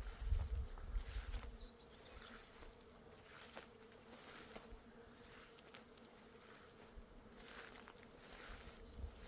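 Bees buzzing as a steady, faint hum, with a few soft knocks in the first second and a half.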